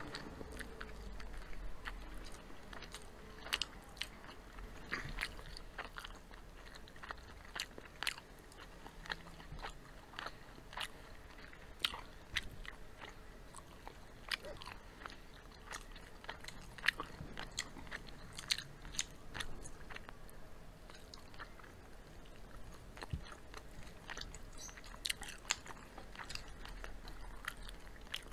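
Two people chewing and biting crispy fried chicken, with irregular sharp crunches of the coating.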